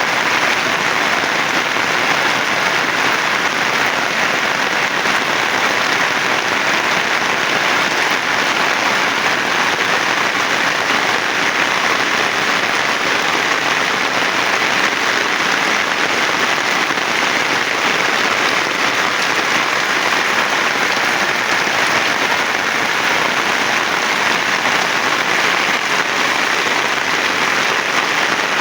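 Heavy rain falling steadily, a dense, even hiss of drops on surfaces with no pause or change.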